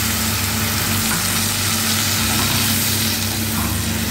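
Tamarind pulp sizzling and bubbling in hot spiced oil in a kadhai, with a spatula stirring through it. A steady low hum runs underneath.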